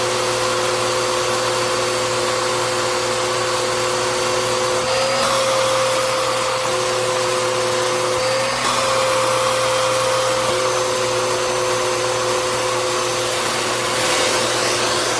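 Bissell CleanView upright bagless vacuum cleaner running steadily: an even motor whine over a rush of airflow. The pitch briefly wavers twice, about five and eight and a half seconds in.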